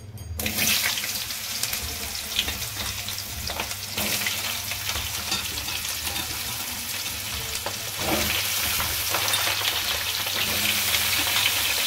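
Potato wedges sizzling as they fry in hot oil in a kadhai. The sizzle starts suddenly about half a second in, as the potatoes hit the oil, and carries on steadily with faint crackles.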